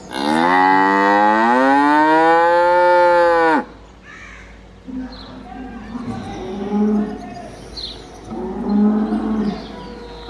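Dairy cow mooing: one long, loud call of about three and a half seconds that rises in pitch and drops as it ends. Two lower, quieter moos follow in the second half.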